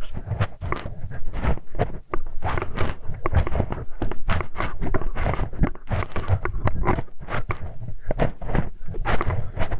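Close-miked ASMR ear-cleaning sounds: a tool working at a microphone's ear with dense, irregular scratching, rubbing and clicking, without a break.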